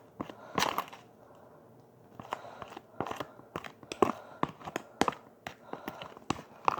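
Spoon stirring a gritty mixture of melted butter and sugar in a bowl, with irregular sharp clicks and scrapes against the bowl. There is a short pause about a second in before the stirring resumes.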